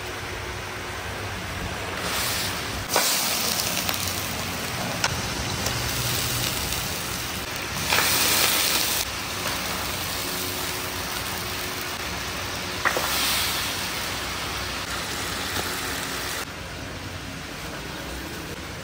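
Onions frying and browning in ghee in a large cooking tub: a steady sizzle that swells louder several times, with a few sharp knocks against the pot.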